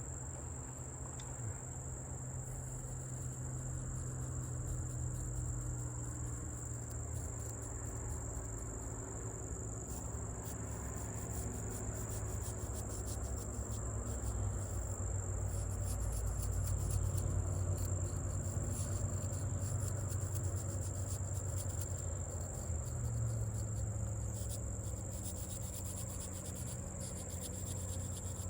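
Crickets trilling steadily on one high note, over a low rumble and faint irregular scratching, as a knife blade is rubbed with sand to smooth its grind lines.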